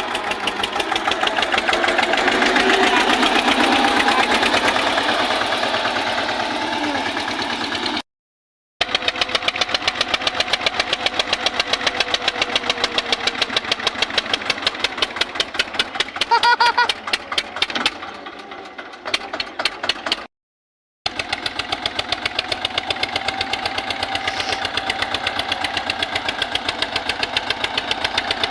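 Eicher tractor's diesel engine running with a rapid, even chugging beat. The sound drops out briefly twice, and a short higher tone sounds about two-thirds of the way through.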